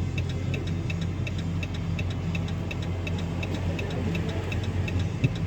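Car engine idling with a steady low hum, and a rapid, even ticking over it, about four or five ticks a second.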